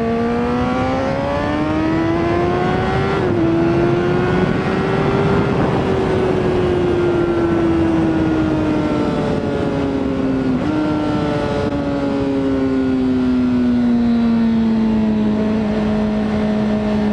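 Honda CBR600RR sport bike's inline-four engine under way: the revs climb, drop at an upshift about three seconds in, then wind down slowly as the bike eases off, with a quick downshift and rise in revs a little past halfway. Wind rush runs underneath.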